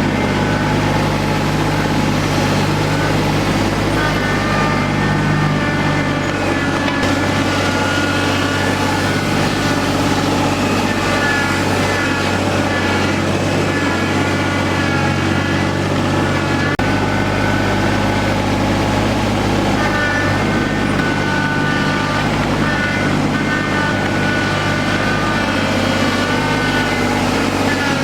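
A farm vehicle's engine running steadily at an even pitch and level.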